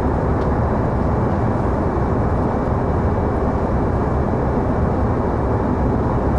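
Passenger airplane cabin in cruising flight: the steady, deep rush of engine and airflow noise, with a faint steady high tone above it.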